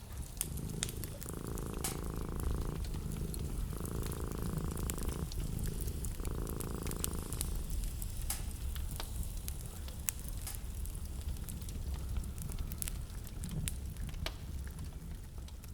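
Wood fire crackling, with frequent small pops over a low steady rumble. In the first half, three separate stretches of a low buzzing sound, each lasting about a second and a half, rise and fall over the fire.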